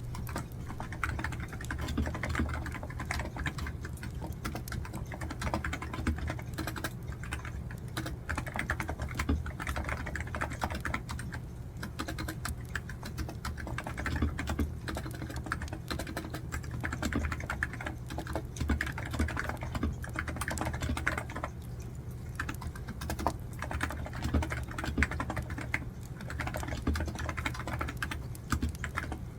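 Computer keyboard being typed on in fast, uneven runs of key clicks, over a steady low hum.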